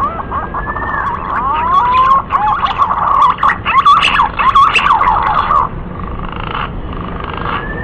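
Green pigeon (Treron) singing: a run of whistled, warbling notes that slide up and down in pitch, loudest in the middle, with fainter whistles near the end.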